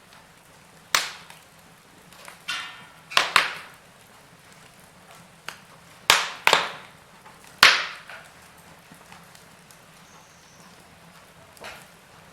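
Wood fire in a fireplace crackling: sharp pops and snaps at irregular intervals, the loudest grouped in the middle, over a faint steady background.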